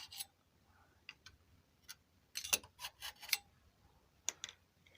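Scattered metallic clicks and taps, with a cluster about two and a half to three and a half seconds in and another just after four seconds, as the silencer insert is worked out of an Akrapovic-replica motorcycle exhaust.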